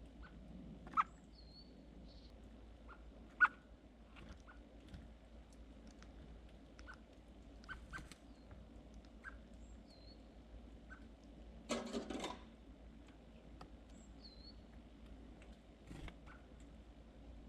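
Small birds close by: scattered light taps and clicks with a few short, high chirps, and a brief rustling flurry about twelve seconds in.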